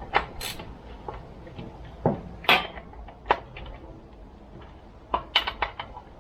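Scattered sharp metal clicks and knocks from handling the parts of a Shindaiwa 488 chainsaw on a workbench, a few single knocks and then a quick run of about six clicks near the end.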